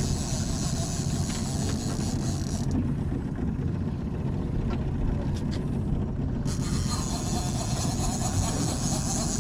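Steady low rumble of a boat's motor running at trolling speed, mixed with wind and water noise.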